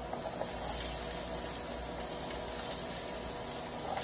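Steady sizzle of garlic and chopped onion sautéing in oil in a wok.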